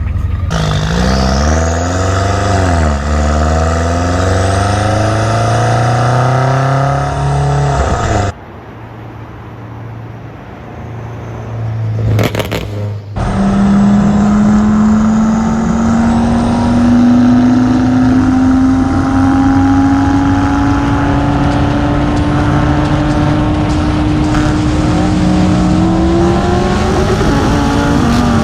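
High-performance car engines accelerating hard at full throttle, rising in pitch through a gear change. About eight seconds in, a cut drops to a quieter stretch with a sharp click. Then comes a long pull rising slowly in pitch, with another gear change near the end.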